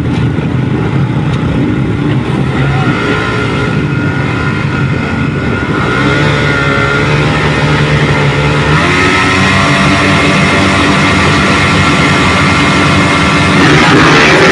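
Several motocross bikes racing on the track, engines revving with pitch rising and falling as they work through the course. The engines grow louder toward the end.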